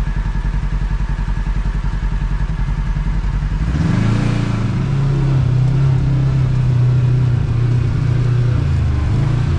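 Kawasaki KRX side-by-side's engine chugging at low revs over rough trail, then revving up about four seconds in and holding a steady, higher note as it pulls.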